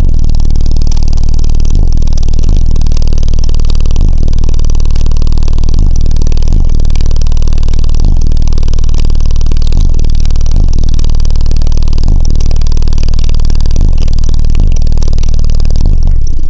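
Car-audio subwoofers playing a sustained, very loud low bass tone that overloads the microphone into distortion, with brief dips about every two-thirds of a second. It stops just after the end.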